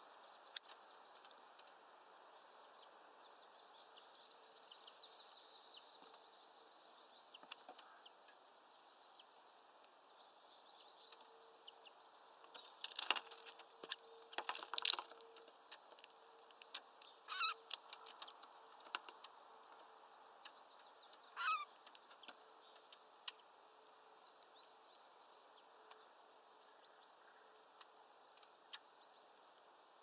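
Small birds at a sunflower-seed feeder: scattered short, high chirps, a cluster of sharp knocks and wing flutters about halfway through as a bird lands on the wooden perches, then a few louder chirps.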